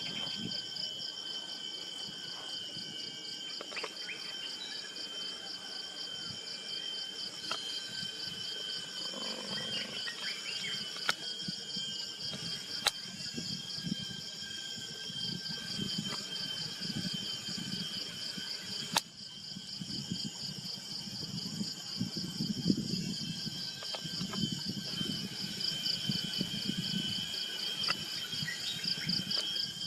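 Chorus of insects trilling steadily: a high, rapidly pulsing drone with steadier high tones beneath it. Two sharp clicks come in the middle.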